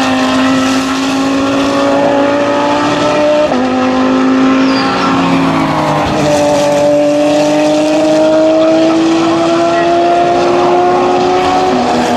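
GT3/GT4 race car engines running at speed on the circuit. The engine notes climb slowly in pitch and step abruptly a few times, as with gear changes under acceleration.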